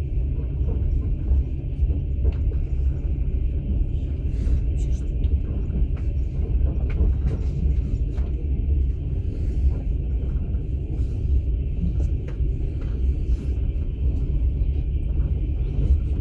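Steady low rumble of a moving passenger train heard from inside the carriage, with a constant hiss higher up and faint scattered clicks and creaks.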